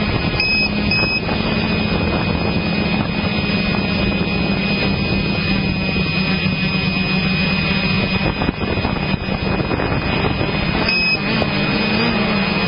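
Motocross motorcycle engine running loud and steady, with a slight wavering of pitch near the end.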